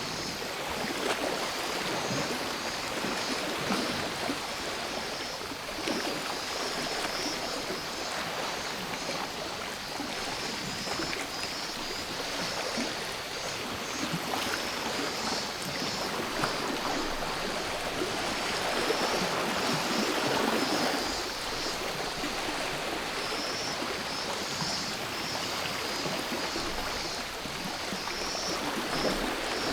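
Sea waves washing onto the shore, with a bigger wave about two-thirds of the way through. A steady high cicada chorus drones above the surf.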